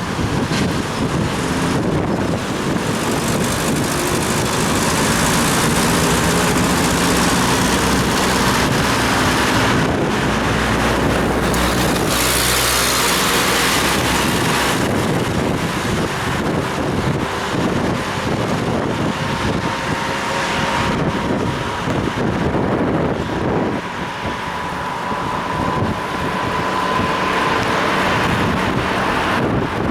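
Wind buffeting a head-mounted action camera's microphone on a moving bicycle, mixed with motor traffic passing on the road. A louder rush with a low rumble comes about twelve seconds in.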